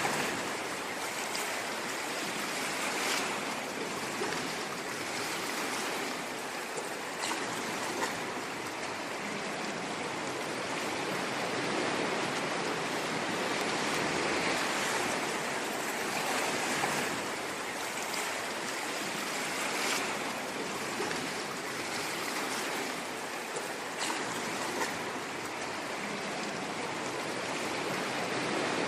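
Ocean waves washing onto a shore: a continuous rushing surf that swells and eases every few seconds, with light crackling fizz.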